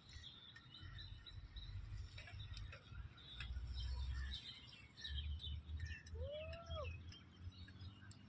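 Birds chirping faintly, with one drawn-out call that rises and falls about six seconds in, over a low rumble.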